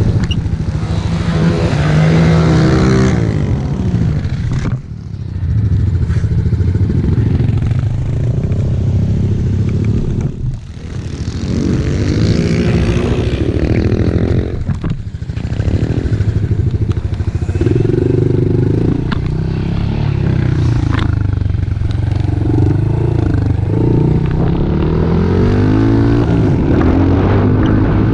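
Pit bike engine running hard as it is ridden, revving up and down with the throttle, with brief drops in engine note about five, ten and fifteen seconds in.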